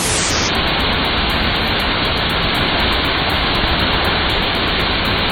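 A heavy waterfall rushing, picked up at close range by a phone microphone: a loud, steady, even wash of water noise.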